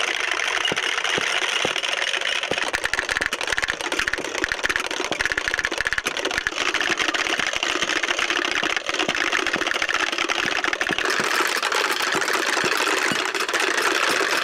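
Wooden Easter rattles (Klappern) being worked steadily, a dense rapid clatter of clicks used in place of church bells from Maundy Thursday to Holy Saturday.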